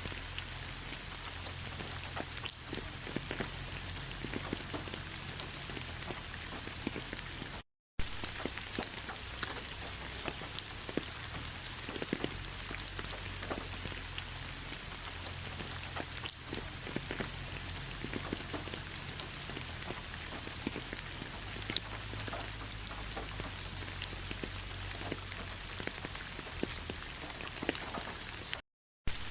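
Steady rain pattering on fallen leaves, a constant hiss scattered with many sharp individual drop ticks. The sound drops out completely twice for a split second, about eight seconds in and near the end.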